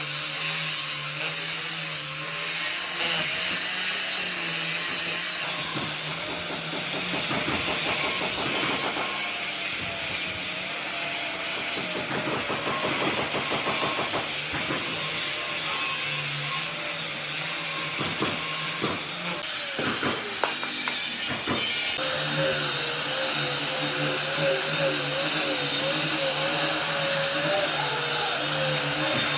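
Electric power tool running continuously, its pitch wavering as the load changes, with an abrupt shift in the sound about two thirds of the way through.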